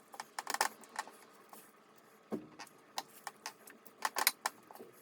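A series of irregular light clicks and taps, with a duller knock a little past halfway and a quick cluster of clicks near the end.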